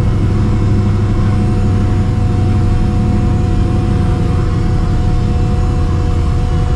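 Exhaust of a cammed, Procharger-supercharged V8 in a 1999 Mustang GT running steadily at a constant pitch, a deep rumble with a faint steady whine over it.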